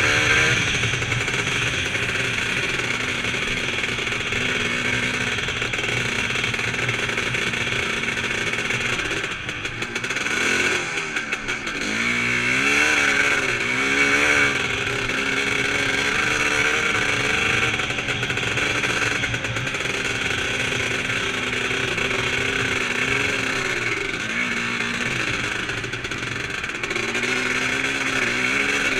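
Vintage 350-class motocross bike's engine heard close from the on-board camera, its revs rising and falling over and over as the rider works the throttle and gears. The revs drop off and build back up between about nine and twelve seconds in.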